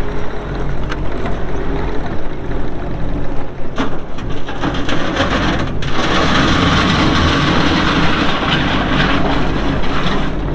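Kubota SVL75-2 compact track loader's diesel engine running as the machine is operated, with a few sharp knocks in the first half. About six seconds in it comes up to a higher, louder pitch with a fuller rushing noise for about four seconds, then eases off.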